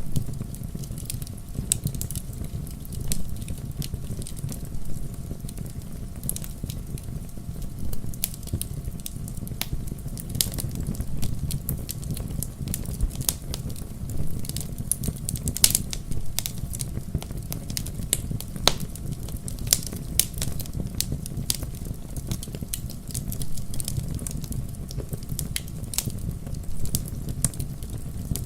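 Wood fire burning in a fireplace: many sharp, irregular crackles and pops over a steady low rumble of the flames.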